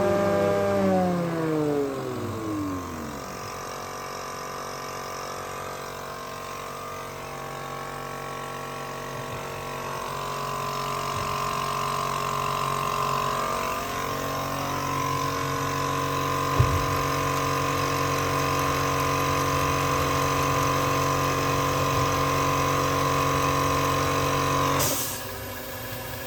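Electric spindle motors of a Beuving four-sided moulder: one winds down in falling pitch over the first few seconds, then motors spin up again and run with a steady hum, with a single click midway, until they cut off sharply near the end.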